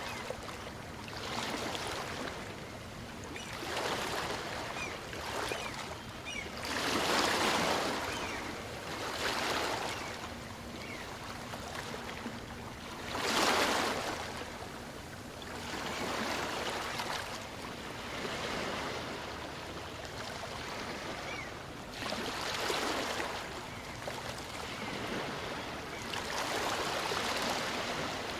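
Small waves of a calm sea breaking and washing up a sandy beach, one wash every two to three seconds, the biggest about seven and thirteen seconds in and again near the end.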